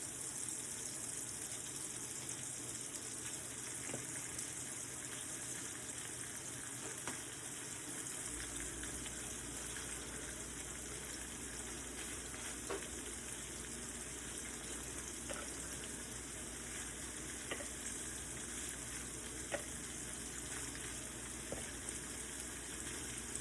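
Shrimp sizzling in a hot pan, a steady frying hiss as they sear for color, with a few light clicks scattered through it. A low hum joins in about eight seconds in.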